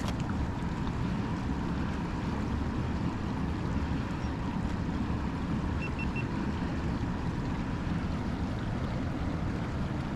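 Steady rush of water pouring into a lake drain, running high and fast after heavy snowmelt.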